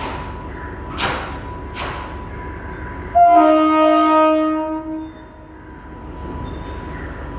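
A train horn sounds once with a chord of several tones, held for about a second and a half before fading, over the steady rumble of a moving passenger train. There are a few sharp knocks before it.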